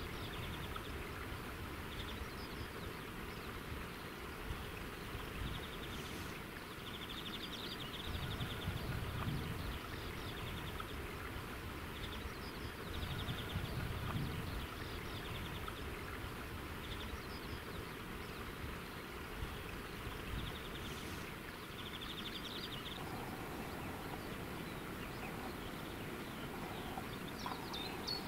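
Outdoor ambience: a steady rushing hiss, with a small songbird's short trill repeating every few seconds.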